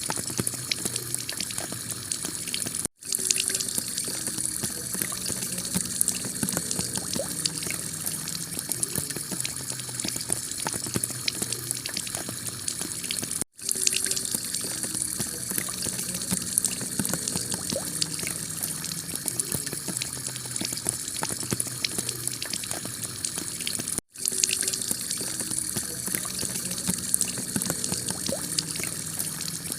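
Heavy rain falling on a clay-tile roof: a steady dense hiss full of small drop ticks. The sound cuts out for an instant three times, about ten seconds apart.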